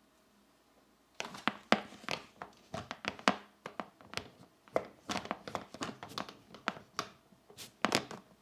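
Colored pencil scratching across paper in quick back-and-forth coloring strokes, about four a second, starting about a second in.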